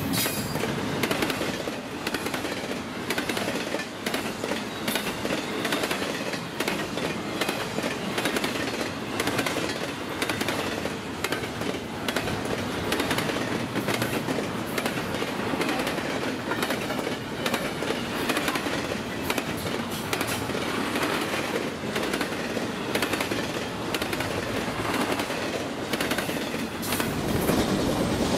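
Intermodal freight train rolling past, its cars' wheels clicking over the rail joints in a steady clatter.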